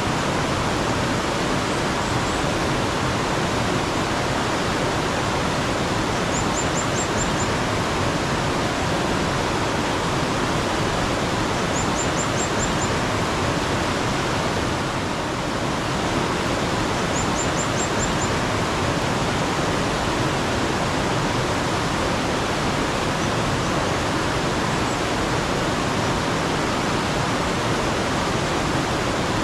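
Steady rush of flowing mountain water, filling the whole sound. A bird's quick run of about five high notes comes in every five or six seconds.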